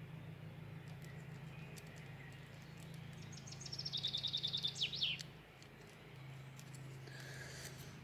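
A small bird singing a rapid trill of fast repeated high notes for about two seconds, starting about three seconds in and ending in a couple of quick downward sweeps. A steady low hum runs underneath.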